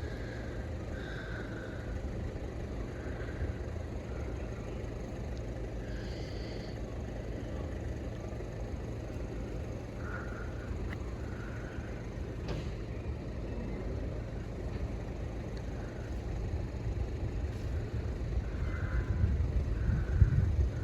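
Outdoor ambience: a steady low rumble with scattered short, faint chirps, like distant birds. The rumble grows louder over the last few seconds, then drops away suddenly.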